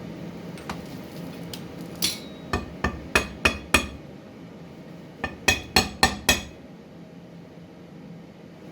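Hammer blows on metal: a few light taps, then two quick runs of sharp, ringing strikes, six and then five, about three a second.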